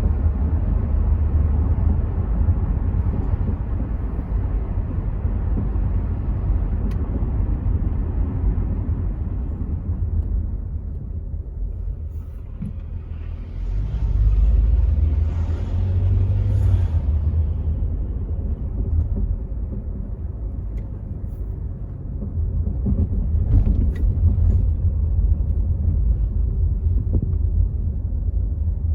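Rover 75 V6 estate on the move, heard from inside: a steady low engine and road-tyre rumble with wind noise from partly open windows. It eases off about ten seconds in and swells again at about fourteen seconds.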